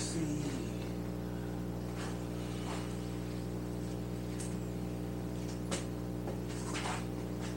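Steady electrical mains hum, with a few short knocks and clatters of things being handled and moved.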